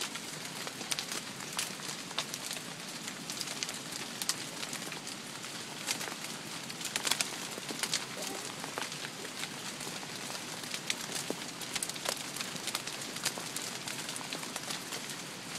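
Hail coming down with rain: a steady hiss peppered with irregular sharp clicks as hailstones strike hard surfaces.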